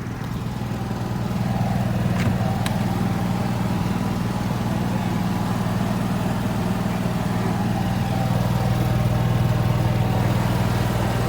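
An engine running steadily at idle, a low even hum that firms up about a second in.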